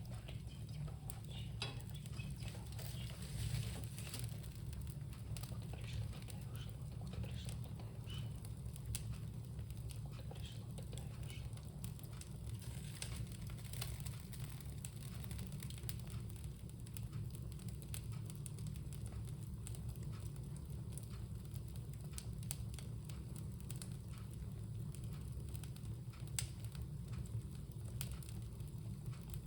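Wood fire burning and crackling, with sharp pops scattered irregularly over a steady low rumble.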